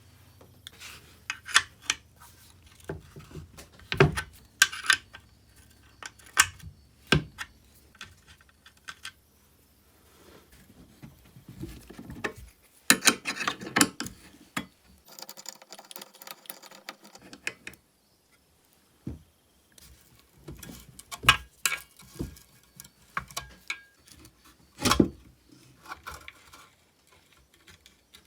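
Hand tools and small metal chainsaw parts clinking and knocking as the saw is taken apart, in scattered separate strikes with a denser rattling stretch about halfway through.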